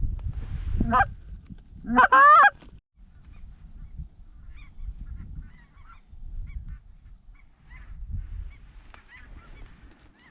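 Geese honking: two loud, close calls about one and two seconds in, then faint, scattered honks for the rest of the time, over a low wind rumble on the microphone.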